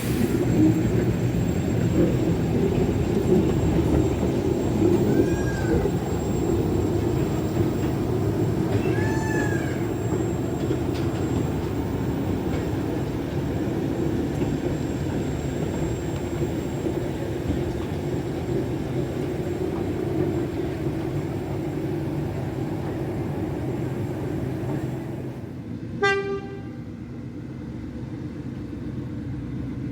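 A small locomotive working with a steady low rumble, then giving one short toot about 26 seconds in, after which the running quietens.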